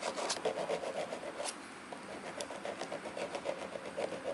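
Small metal file rasping over the cut-off stubs of dial feet on the back of a watch dial, smoothing the cuts with quick, even back-and-forth strokes and a brief pause near the middle.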